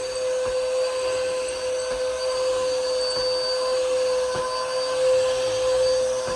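Bissell upright vacuum cleaner running steadily, its motor giving a constant whine with a strong mid-pitched tone, and a few faint ticks over it.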